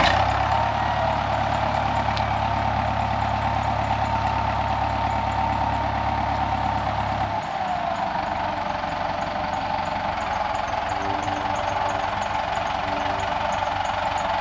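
Engine running steadily, with a strong steady hum over it; its deep low rumble drops away about seven and a half seconds in while the engine keeps running.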